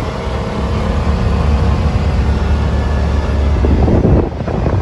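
Yamaha Wolverine side-by-side's engine running at a steady pace while driving, with wind rushing over the microphone.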